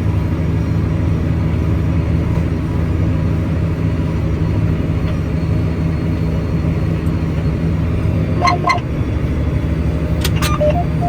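Tractor engine running steadily in a low drone, with two short high-pitched chirps near the end.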